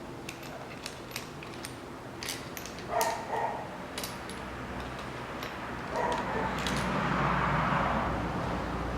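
Sharp metallic clicks and clinks of camshaft bearing caps, camshafts and tools being handled on an engine's cylinder head, with a short louder sound about three seconds in and another at six, followed by a steadier hazy sound and low hum.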